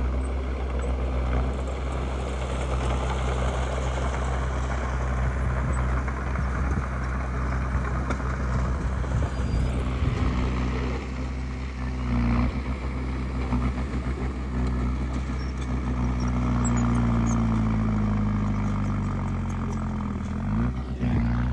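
Diesel engine of a Komatsu D20P bulldozer running steadily under load. Its pitch sags in the second half, then dips sharply and climbs back near the end.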